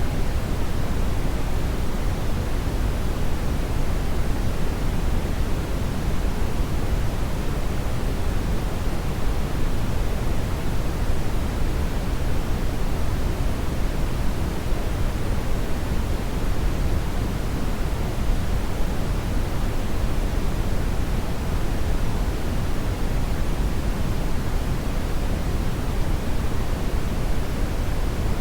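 Hair dryer running steadily: an even, unbroken rushing noise, deepest in the low end, with no change in pitch or level.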